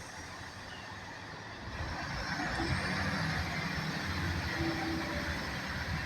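A diesel train passing, its noise growing louder about two seconds in, with a faint rising whine.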